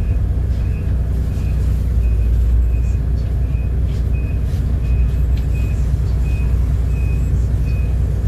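City bus engine running with a steady low drone, heard inside the cabin, with a short high electronic beep repeating about twice a second.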